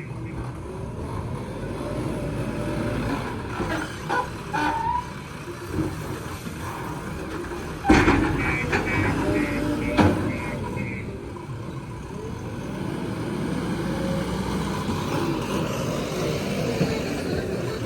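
Diesel engines of a JCB loader and tractor running steadily, with two loud knocks about eight and ten seconds in and a short run of high beeps around the first.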